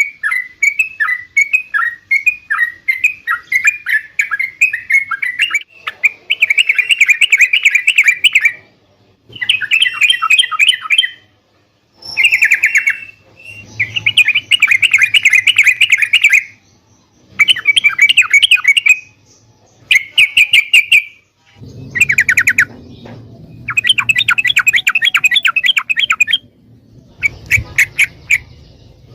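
Yellow-vented bulbul (trucuk) singing: about six seconds of separate chirping notes, roughly two a second, then a string of fast chattering phrases of two to three seconds each with short gaps between them.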